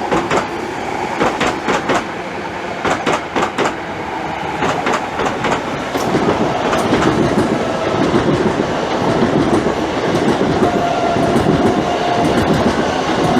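Electric multiple-unit train running through the station, its wheels clattering over rail joints in a string of sharp clicks, settling into a steadier, denser rumble from about six seconds in.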